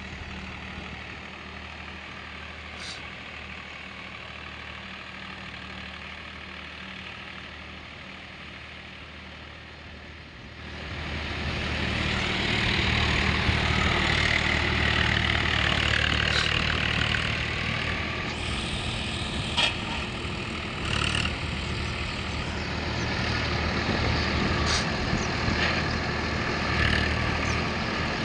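Diesel tractor engine running steadily, then growing much louder and harsher about ten seconds in, as if revved or working closer by, with a few short clicks later on.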